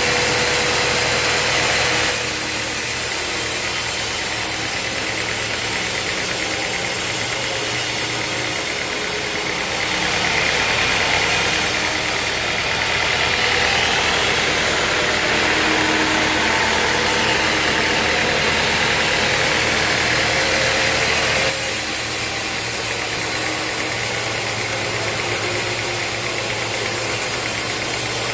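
Band sawmill running, a steady motor hum under a loud hiss. The sound shifts abruptly twice, about two seconds in and again about seven seconds before the end.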